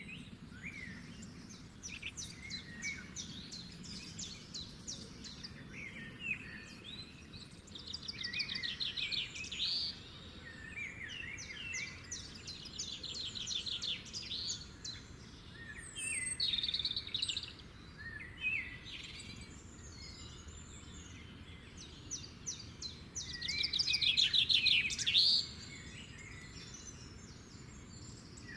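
Birds singing and chirping, several at once, with fast repeated trills over a faint steady background hum; the trills are loudest near the end.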